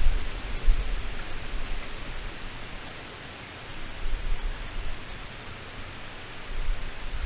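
Heavy rain falling steadily as an even hiss. A low rumble of thunder sits under it at the start and swells again near the end.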